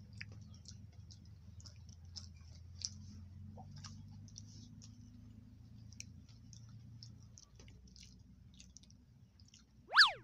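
A person chewing sticky caramelized fried banana (bananacue), with many small wet mouth clicks and lip smacks. About ten seconds in, a short, loud, high chirp slides sharply down in pitch.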